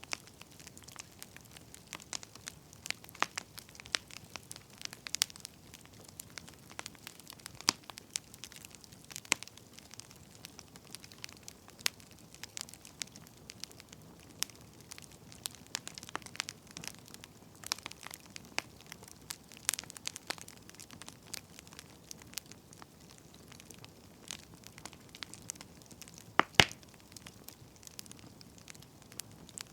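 Wood fire crackling: irregular pops and snaps of burning firewood over a faint hiss, with a couple of louder pops near the end.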